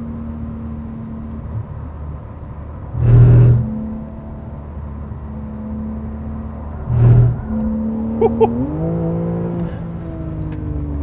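Porsche 911 Carrera S (992) 3.0-litre twin-turbo flat-six heard from inside the cabin on track, holding a steady note. Two loud short bursts come about three and seven seconds in. Near the end the engine note rises as the car accelerates.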